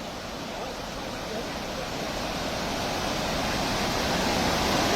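Swollen flood river rushing, a steady dense wash of water noise that grows gradually louder.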